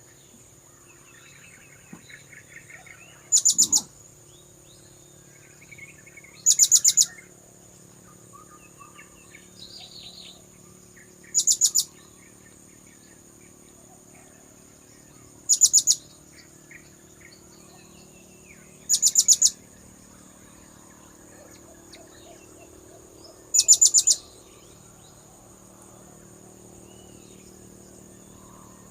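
Blue-crowned hanging parrot (serindit) lure call: six short bursts of rapid, shrill, high-pitched notes, spaced about four seconds apart. Under them run a steady high-pitched whine and faint chirps of other birds.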